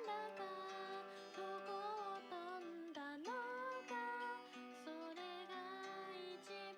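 A voice singing a slow, gentle melody over acoustic guitar accompaniment, with an upward slide in pitch about three seconds in.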